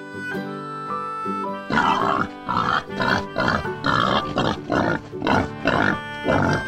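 Background music with a light melody; from about two seconds in, a boar's grunts come in over it, repeated about twice a second.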